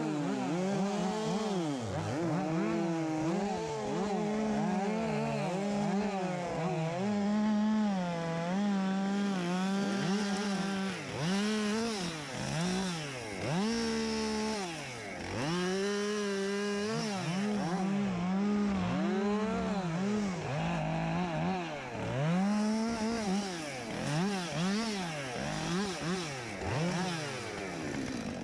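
Two-stroke chainsaw running at high revs, the engine note repeatedly dropping and climbing back up as it is throttled and loaded in a run of cuts, with the dips coming faster and more often after about ten seconds in.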